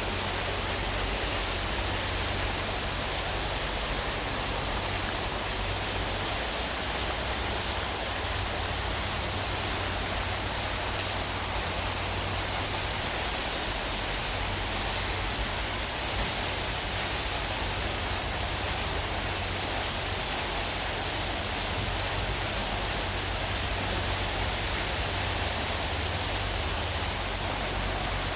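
Steady rush and splash of water falling in a park fountain, unchanging throughout, over a low steady rumble.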